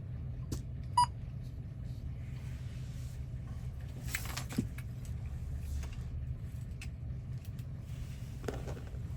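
A single short electronic beep about a second in, from a key code machine's keypad, over a steady low hum, with a few soft clicks and handling noises.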